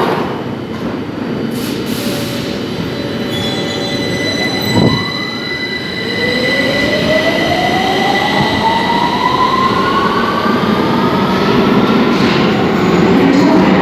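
London Underground Victoria line train (2009 Stock) at the platform. Its traction motor whine falls steeply about five seconds in, then climbs steadily in pitch for the rest of the time as the train accelerates. Underneath are a steady high-pitched tone and continuous rail rumble.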